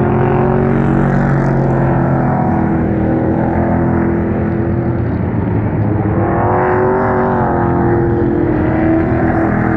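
Pro Truck race trucks' engines running steadily at racing speed. About six seconds in, the pitch bends up and back down as trucks go by.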